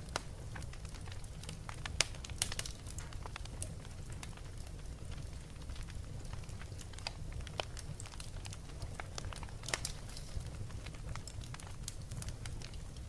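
Wood fire in a fireplace crackling and popping: irregular sharp snaps over a steady low rumble, with a few louder pops about two seconds in and again near ten seconds.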